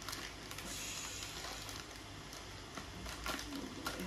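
Rustling and crinkling of plastic packaging being handled and opened, with a few sharper crackles near the end.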